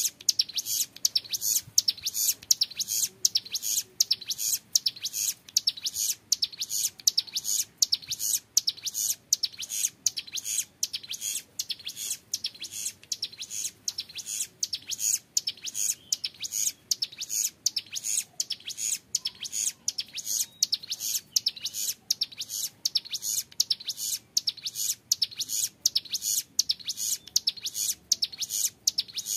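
A young male ciblek gunung (hill prinia) singing a long, unbroken 'ngebren' song: a fast chattering trill of high notes pulsing many times a second.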